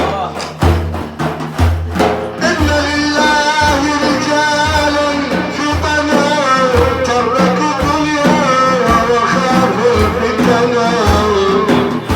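Sufi devotional praise song (madih) for the Prophet: a male voice sings long, ornamented, wavering phrases over evenly repeated drum beats.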